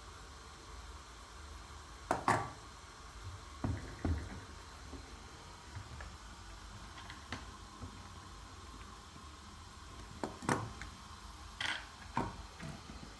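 Scattered knocks and clicks of objects being handled, a second or several apart, over a steady background hiss.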